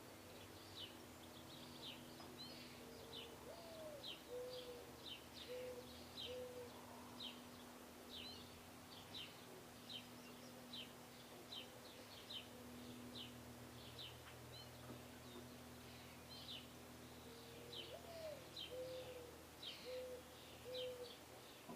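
Faint birdsong at feeders: small birds chip steadily at about two chips a second, while a mourning dove coos its song twice, a rising first coo followed by three short lower coos. A faint steady low hum lies beneath.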